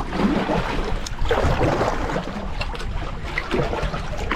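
Wind buffeting the microphone in a low, uneven rumble, over the wash of river water around a canoe.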